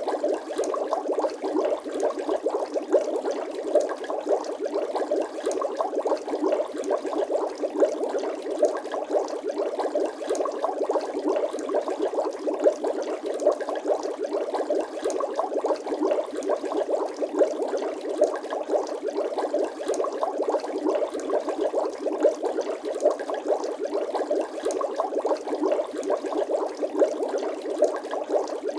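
Bubbling water sound effect: a dense, steady stream of small pops and gurgles.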